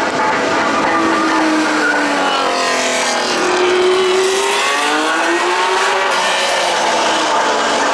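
A race car's engine running hard at high revs, its note dropping and climbing again several times as the driver works the throttle and gears.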